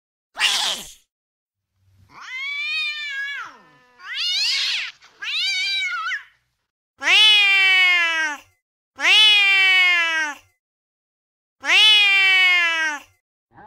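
Recorded angry-cat sounds played from a cat-sounds app. A short harsh burst comes first. It is followed by a string of meowing yowls, each rising then falling, and the last three are long, loud calls that drop in pitch, about two seconds apart.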